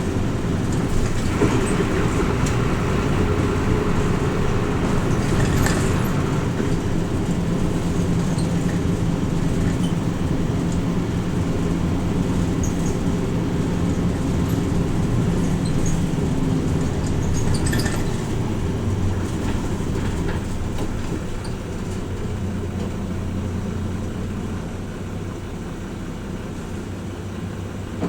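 Interior running sound of a Hino Rainbow RJ (P-RJ172BA) route bus under way: steady diesel engine and road noise with a few light rattles, getting quieter over the last several seconds.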